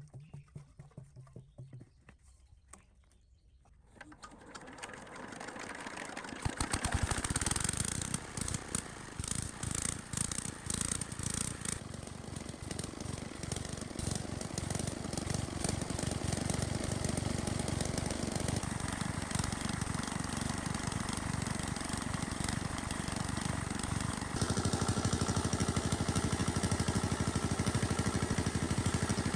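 Small engine of a restored water pump starting up. It runs unevenly at first, then settles into a steady run and gets louder and faster about two-thirds of the way through.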